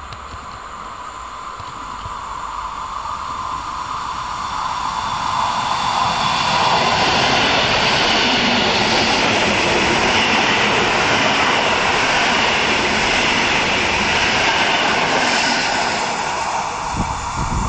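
Commuter electric multiple unit running past at speed: a rushing noise of wheels on rail that swells over the first several seconds, stays loud while the coaches go by, then eases off, with a couple of low thumps shortly before the end.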